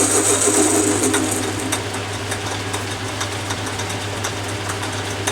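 Atlas 10 metal lathe running with a steady hum while a cutting tool faces the end of a brass bar, giving a high-pitched squeak that fades out about a second and a half in, followed by light scattered ticks.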